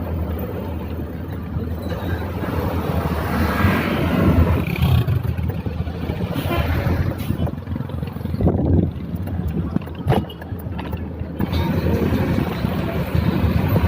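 Road traffic passing while cycling, with wind rumbling on the microphone; the noise swells louder several times as vehicles go by.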